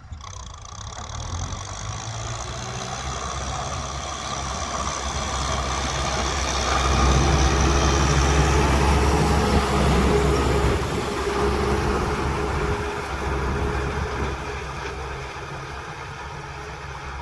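Kubota M6040 tractor's four-cylinder diesel engine running at work. It grows louder to a peak about halfway through, then eases off.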